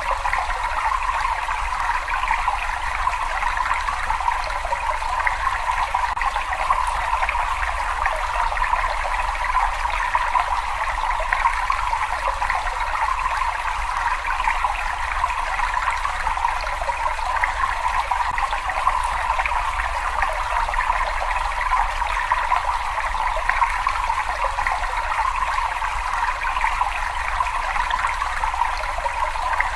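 Steady running water flowing without pause, with a low rumble underneath.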